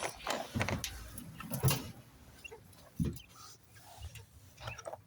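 A few knocks and rustles of hands handling things, with a sharper knock about three seconds in and light clicks near the end.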